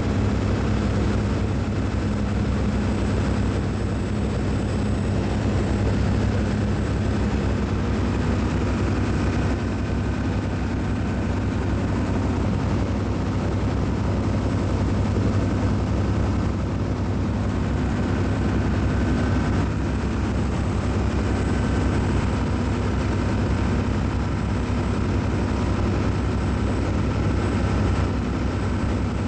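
Cruise ship's engines and machinery running: a steady low drone with a faint high whine over it.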